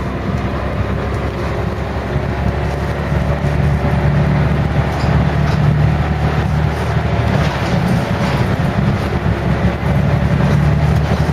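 Scania L113 CRL single-decker bus's 11-litre straight-six diesel engine running under way, a steady low drone that grows a little louder a few seconds in.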